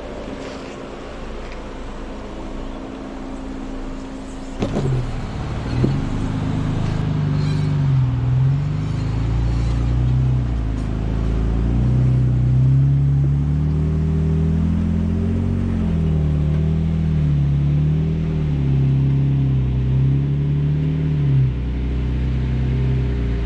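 Jeep engine running low and steady, then after a couple of sharp knocks about five seconds in, its pitch rises and falls repeatedly as the throttle is worked over rough ground.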